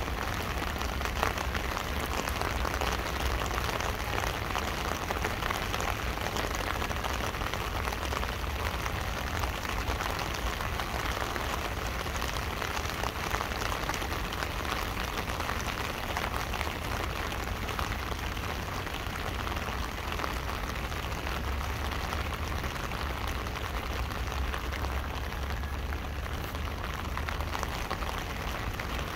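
Rain falling on an umbrella held over the microphone: a dense, steady patter of drops with a low rumble underneath.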